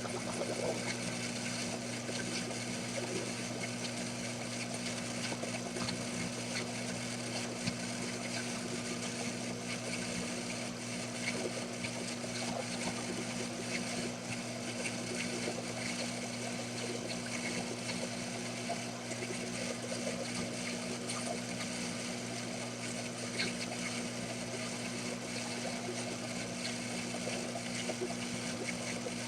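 Small metal lathe running steadily with a constant motor hum and hiss, taking a turning cut on a hexagonal bolt head under leadscrew power feed.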